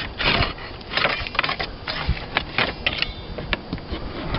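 Metal hand tools tapping and scraping against roof slates, with irregular sharp clicks and a few short scrapes, as old nails and debris are cleared from under a slate.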